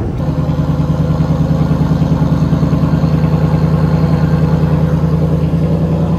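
Ford Mustang GT's 5.0-litre V8 with a Ford Performance exhaust idling steadily, with an even, pulsing exhaust note.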